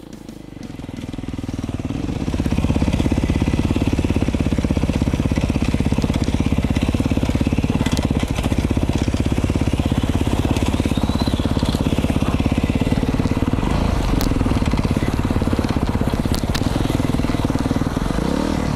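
A 2019 Beta 500 RRS's single-cylinder four-stroke engine, breathing through an FMF Powerbomb header and Q4 silencer, is ridden hard. Its firing pulse swells over the first couple of seconds and then holds at a high, steady level. Crunching and a few sharp clicks from the dirt and rocks run under the engine.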